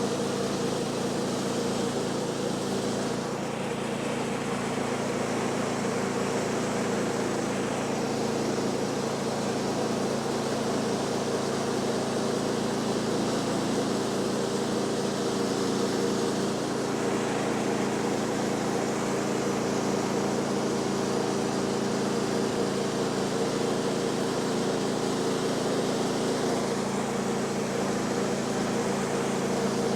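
Woodland Mills HM126 portable bandsaw mill running steadily, its gas engine under load while the band blade saws through a post oak log; the hiss of the cut changes in strength a few times as the cut goes on.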